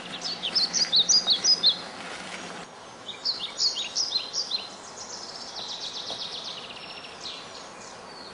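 Songbird singing in repeated phrases of quick, high, down-slurred chirps. A low steady hum sits under it and cuts off about a third of the way in.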